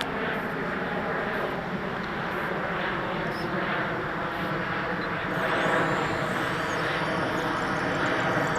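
Twin electric ducted fans of a Dynam Cessna Citation 550 radio-controlled model jet running: a steady rushing hiss, joined about five seconds in by a high whine as it gets a little louder.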